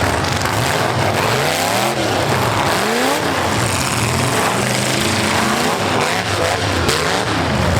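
Several full-size demolition derby cars' V8 engines revving hard, their pitch rising and falling over and over and overlapping one another, over a steady loud din.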